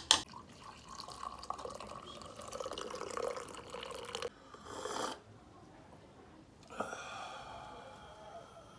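Faint crackling sizzle and dripping of liquid as a hot, smoked prekese pod is dipped into the stew. It stops about two-thirds of the way through and starts again near the end.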